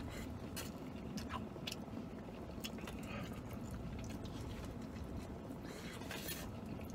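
A man biting into and chewing a chicken and avocado burrito, with scattered short wet clicks and smacks from the mouth, over a low steady hum.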